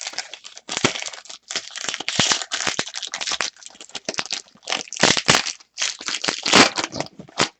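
Foil wrapper of a Panini Prizm basketball card pack crinkling and crackling as it is handled and opened, in a run of quick irregular bursts.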